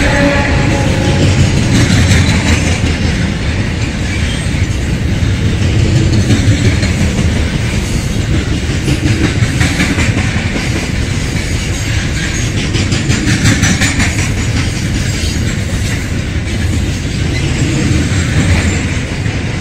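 A FEPASA D23-class diesel freight locomotive's horn sounds and ends about a second in. The locomotive and its loaded freight wagons then roll past in a steady rumble, with wheels clacking over the rail joints.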